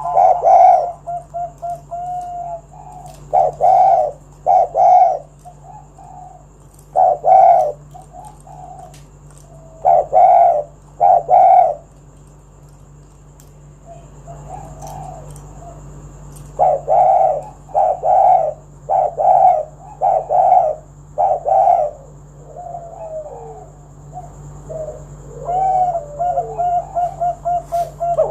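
Spotted dove (tekukur) cooing: repeated phrases of two to four loud coos with pauses of a second or more between them, some quick runs of short notes and a few falling slurred notes among them.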